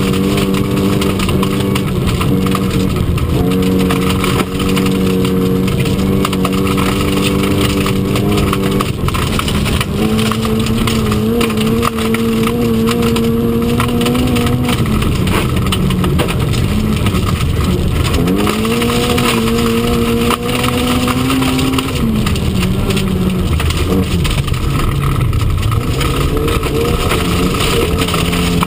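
Historic Mk1 Mini Cooper S four-cylinder A-series engine at full rally pace, heard from inside the cabin. It is held high, and its pitch drops and climbs again several times as the driver lifts and changes gear. Gravel noise from the tyres and stones under the car runs underneath it.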